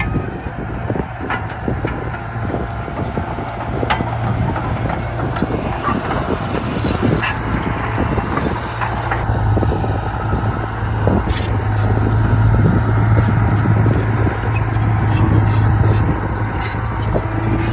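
Heavy diesel earthmoving machinery running steadily, a low engine drone with frequent metallic clanks and rattles.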